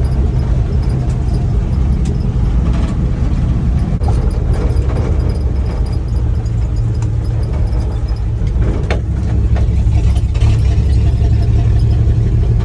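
1967 Dodge D100 pickup's 225 slant-six engine running steadily under way on a dirt road, with a deep low drone and road noise, and a few brief knocks and rattles.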